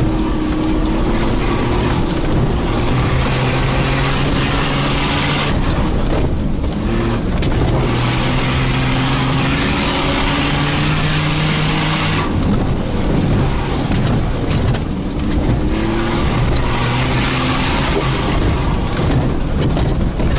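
Toyota Land Cruiser 80 off-road vehicle's engine running under load, its pitch rising and falling several times as it revs up and eases off.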